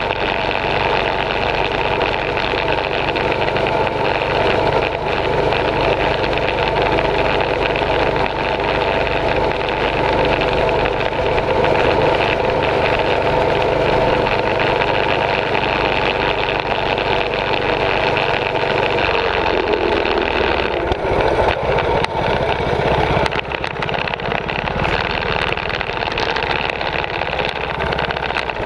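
Small mini bike engines running steadily under riding, with a change in the engine note about twenty seconds in.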